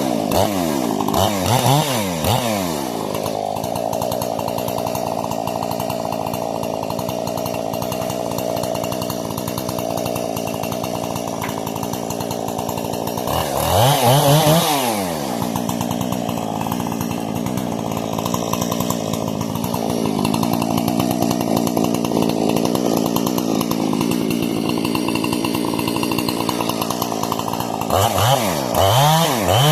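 Husqvarna 460 two-stroke chainsaw with a modified carburettor and muffler, revved in quick blips at the start, again about halfway, and near the end, running steadily in between. The saw is being broken in after the carb and muffler mods.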